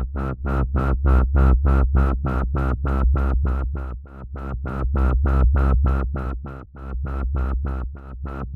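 Wobble bass from a synth instrument built out of Korg monotron samples. It is a sustained low note whose filter pulses open and shut about four times a second, driven by an LFO synced to eighth notes and routed to the filter cutoff.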